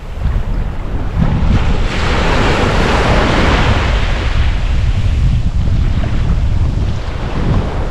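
Ocean waves breaking and washing up on a sand beach, with wind buffeting the microphone into a low rumble.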